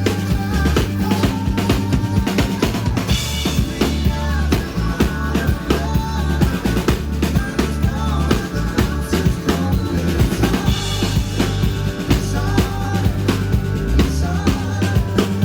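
Live band music with a steady drum-kit beat, snare and bass drum, over a bass line.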